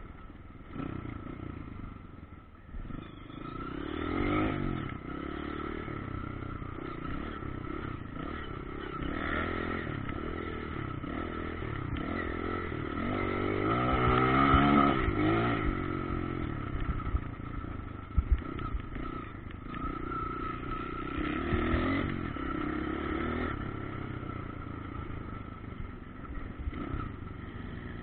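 Motocross bike engines revving up and down in pitch as riders work the track, loudest about halfway through, with a few sharp clicks a little later.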